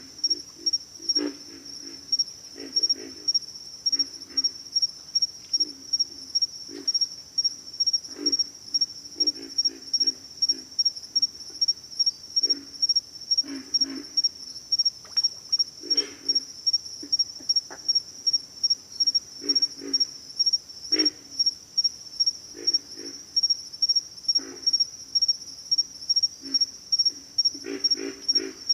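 Pig frogs grunting: irregular bursts of short, low, rapid grunts, some calls answering others. Behind them a steady high-pitched insect chorus pulses evenly about two to three times a second.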